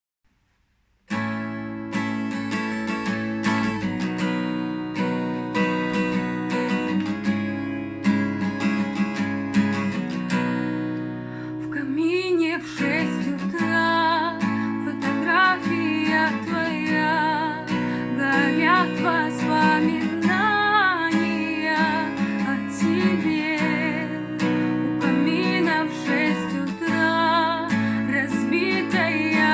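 Acoustic guitar strumming a song introduction, starting about a second in. From about twelve seconds a wordless vocal melody with vibrato joins over the guitar.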